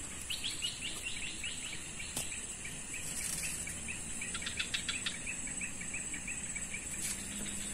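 A bird singing a long run of quick, repeated short notes that slide gently lower, with a faster burst about four and a half seconds in, over a steady high-pitched insect drone.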